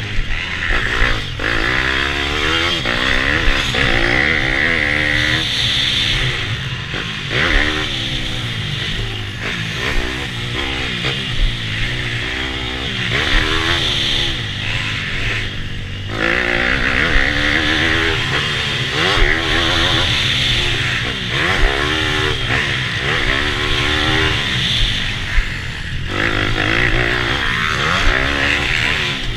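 Bucci F15 pit bike's single-cylinder engine revving hard and backing off again and again through a lap, its pitch climbing and dropping every second or two, with a few sharp knocks along the way.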